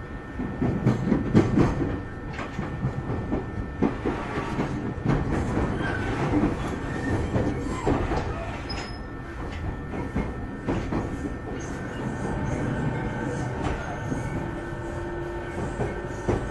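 Running noise inside a JR 209 series electric train's motor car (MoHa 209-2151): a continuous rumble of wheels on rail with irregular clicks over the track. Near the end a faint steady tone comes in.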